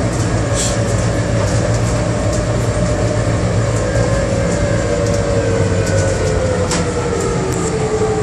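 Bombardier Innovia APM100 rubber-tyred people mover heard from inside the car, running with a steady low hum and a motor whine that falls slowly in pitch as the train slows for a station stop.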